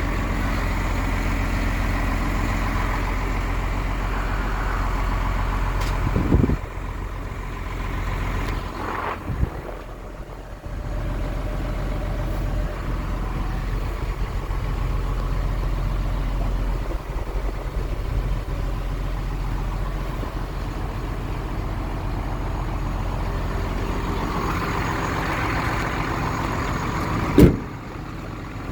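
Hino truck's diesel engine idling steadily, with a few sharp knocks about six and nine seconds in and a louder one near the end.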